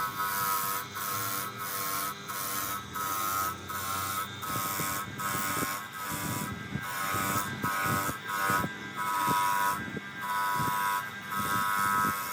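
Small electric grinder motor running with a steady buzz, broken by short repeated bursts of grinding noise as a workpiece is pressed to the wheel and lifted off, about once or twice a second.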